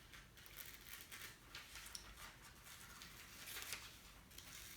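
Scissors snipping through newspaper as an oval shape is cut out, with light paper rustling: a string of faint, irregular snips.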